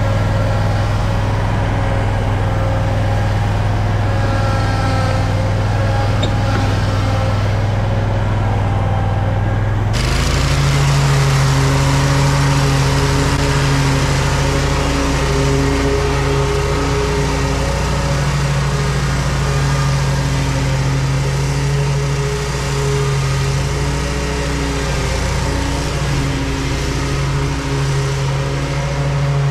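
Lawn mower engine running steadily under load. About a third of the way in the engine note rises and the sound turns brighter, then holds at the higher speed.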